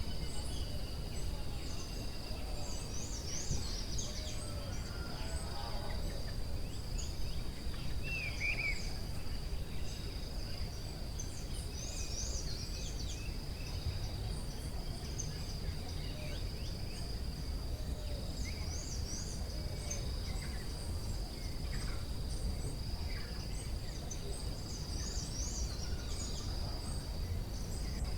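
Forest ambience: a steady high insect drone with many short bird chirps over it, and a low rumble underneath.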